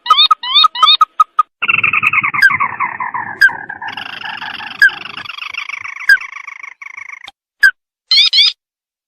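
Crake (the Indonesian 'tikusan mata merah') calling: a quick run of short, sharply rising notes, then from about one and a half seconds a long rattling trill of many rapid notes lasting about six seconds, then two brief bursts of rising notes near the end.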